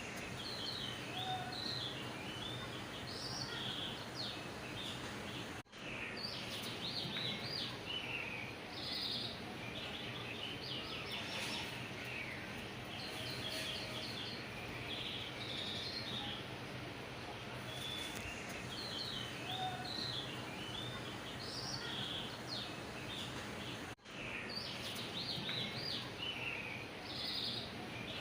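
Small birds chirping and calling over a steady background hiss, with two brief dropouts about six seconds in and near the end.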